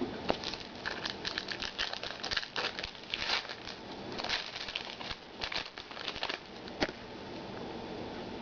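Foil trading-card pack wrapper crinkling and rustling in the hands for several seconds as the pack is opened and the cards are handled, with a sharp click near the end.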